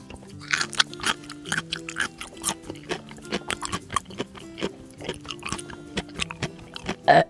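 Quick, irregular munching and chomping eating sounds, play-acted for a toy eating a Play-Doh burger, over background music.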